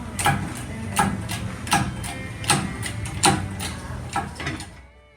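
Metallic clicking in an even rhythm, about two to three clicks a second, from hand tools working on bolts, over a low steady hum. The clicking fades out near the end.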